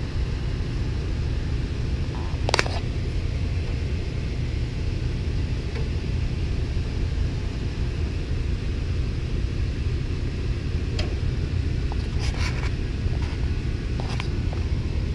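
Steady low rumble, with a few short light knocks: one about two and a half seconds in and several near the end.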